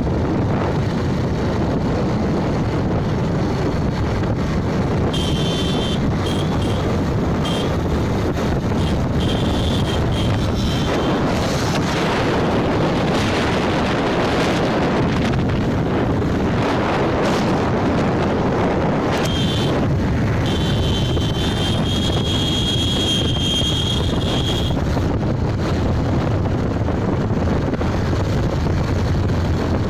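Wind buffeting the microphone and road noise on a moving motorcycle, steady throughout. A thin high whine comes in twice, about five and twenty seconds in.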